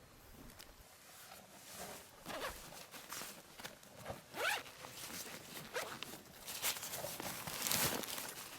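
A zipper being pulled, in several short scratchy strokes.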